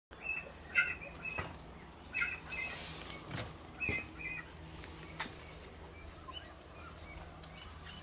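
Small birds chirping: short high chirps, often in quick pairs, repeated through the first half and fading to scattered single notes. A few sharp knocks come in between.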